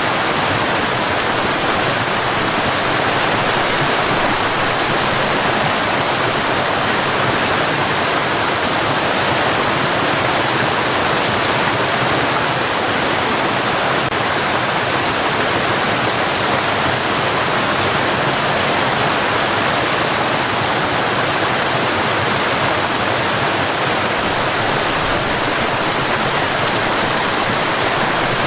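Steady white noise: an even, unbroken hiss that does not change in level or character.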